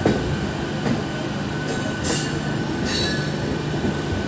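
MEMU electric passenger train running along the track, heard from on board: a steady rumble and hum with a faint steady whine. Brief high squeals from the wheels come about two and three seconds in.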